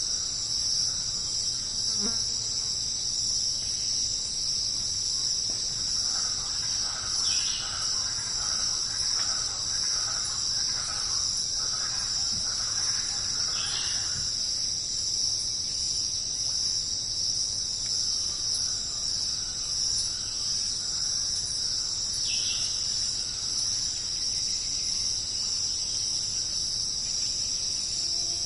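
Steady, dense insect chorus with a continuous high-pitched trill. Softer repeated chirps come and go partway through, with a few short falling calls above them.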